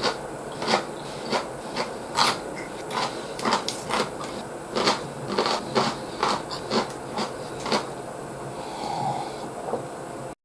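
Close-up chewing: wet mouth smacks and clicks, two or three a second.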